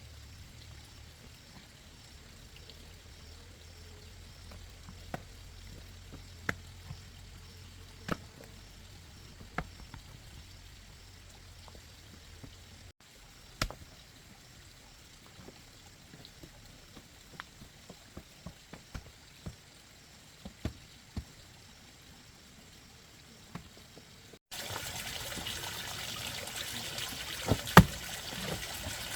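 Scattered sharp knocks and taps over a faint low background. About 24 seconds in, a steady rush of water trickling or pouring starts, with two louder knocks over it.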